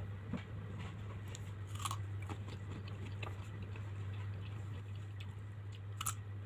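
Close-up mouth sounds of biting and chewing mango with shrimp paste: scattered small crunches and clicks, with a louder crunch about two seconds in and another near the end, over a steady low electrical hum.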